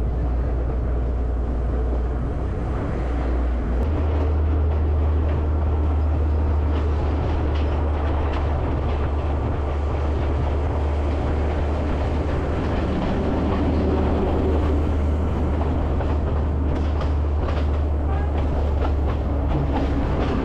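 Passenger train running along the track: a steady low rumble with the clickety-clack of wheels over rail joints, the clicks coming more often in the second half.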